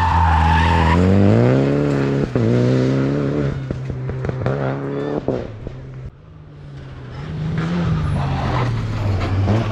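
Rally car accelerating hard through the gears, with a quick upshift about two seconds in, then popping and crackling on lift-off as it passes and fades. Another rally car's engine comes up again near the end.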